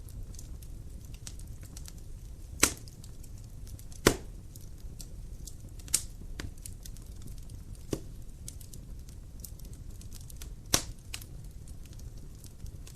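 Wood fire burning in a fireplace: a steady low rumble of the flames with fine crackling and five sharp pops of burning logs spread through it, the loudest about three and four seconds in.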